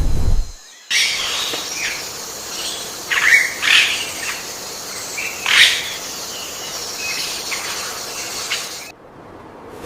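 A low thumping sound in the first second, then from about a second in several short bird calls over a steady outdoor hiss, which cut off suddenly near the end.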